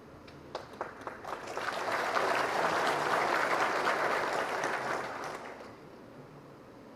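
Audience applause: a few scattered claps that build into dense clapping, then die away after about five seconds.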